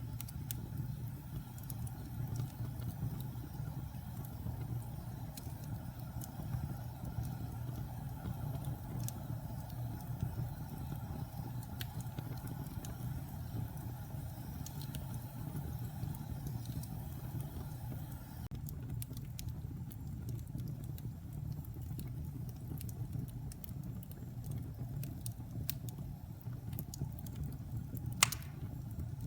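Wood fire burning in a fireplace: a steady low rumble with scattered small crackles, and one louder pop near the end.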